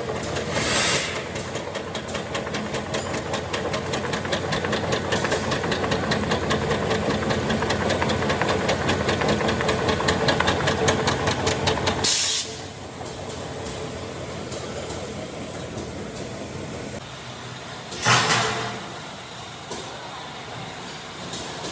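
Tyre-factory machinery running with a fast, even rhythmic clatter that stops about twelve seconds in with a sharp hiss of released air. A steadier, quieter machine noise follows, with another short burst of air hiss near the end.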